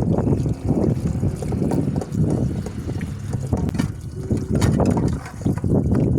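Water running and splashing over dishes being washed by hand, with a few light clicks of crockery a little past halfway.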